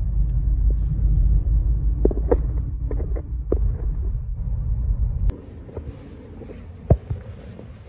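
Low rumble of a car driving, heard from inside the cabin, with a few small clicks and knocks; the rumble stops abruptly about five seconds in, leaving a much quieter background with a sharp click shortly before the end.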